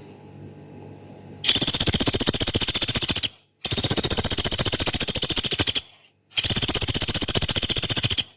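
A pelatuk beras woodpecker giving three long, harsh, machine-gun-fast rattles, each about two seconds long with a brief pause between, the first starting about one and a half seconds in.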